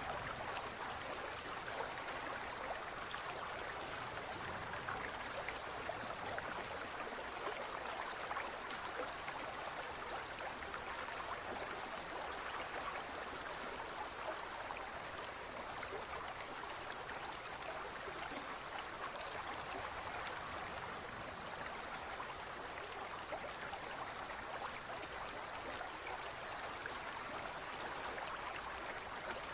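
Running water trickling and bubbling steadily, like a small stream or aquarium water flow.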